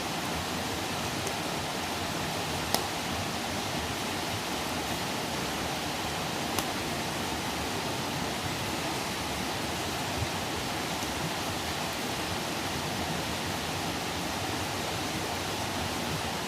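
Wood campfire burning with a steady hiss and a few sharp crackling pops, the loudest about three seconds in.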